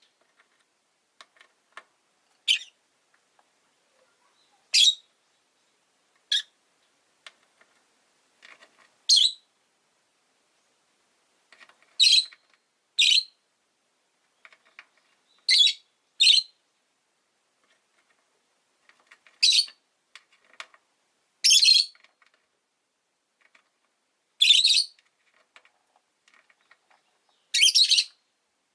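Rosy-faced lovebirds giving short, sharp, high-pitched chirping calls, about a dozen spread out every one to three seconds, sometimes in quick pairs.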